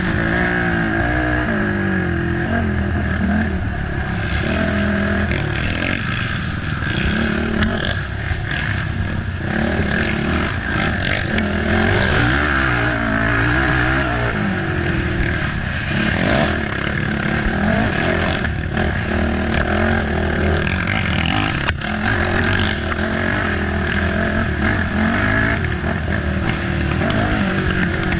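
Racing quad's engine revving hard, its pitch rising and falling every second or two as it accelerates and backs off, with a few short knocks.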